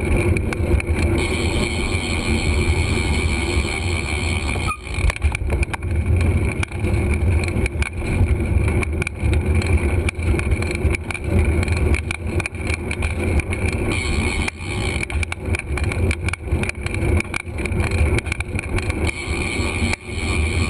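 Wind buffeting a camera microphone during a bicycle ride, with road noise and frequent knocks and rattles from the bike over the road surface.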